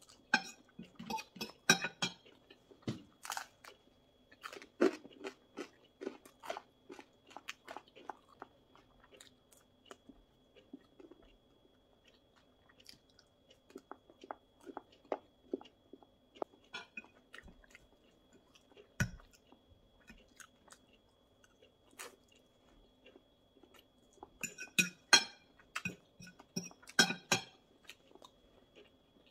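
A person chewing a mouthful of food close to the microphone, with crunching clicks. The chewing is busy for the first eight seconds or so, sparse in the middle, and comes in a fresh flurry about 25 seconds in.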